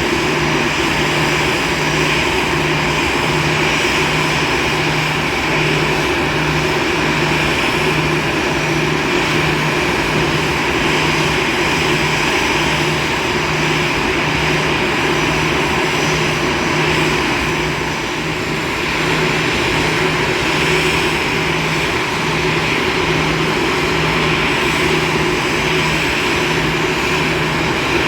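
Airbus A320-214's CFM56 jet engines running steadily, a loud even rush with a low hum that throbs about three times every two seconds.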